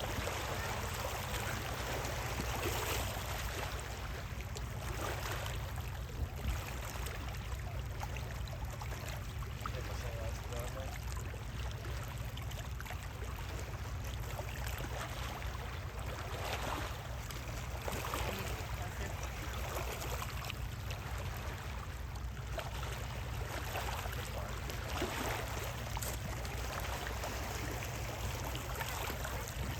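Steady low rumble under an even, rushing hiss like moving water, with soft swells every few seconds and no distinct events.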